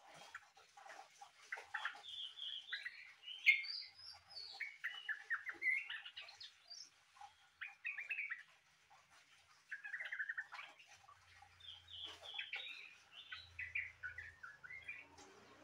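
Trucukan (yellow-vented bulbul) singing a long run of quick, varied chirping phrases with short pauses, in a song likened to a cucak ijo's (greater green leafbird).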